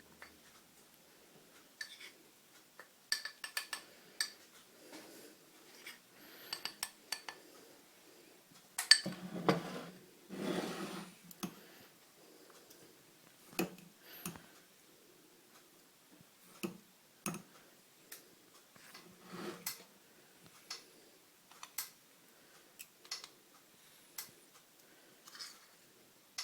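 A utensil clinking and scraping against a bowl as cake ingredients (flour, sugar, cocoa, egg, milk and oil) are mixed together by hand. The sound comes as scattered sharp clinks, with a longer stretch of steady scraping about nine seconds in.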